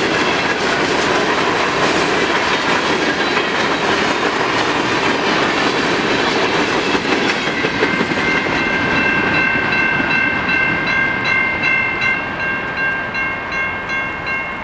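Long train of empty coke hopper cars rolling past, wheels clacking over the rail joints. About eight seconds in, a steady high-pitched tone and a faint regular ticking join in as the rumble eases a little.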